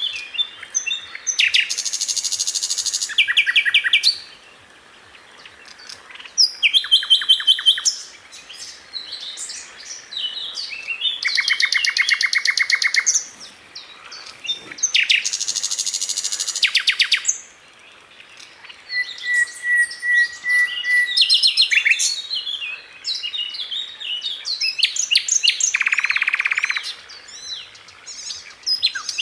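Sikatan Londo flycatcher singing high, fast, tightly packed phrases: bursts of rapidly repeated notes, each burst a second or two long, separated by short pauses, with a brief even whistle about two-thirds of the way through.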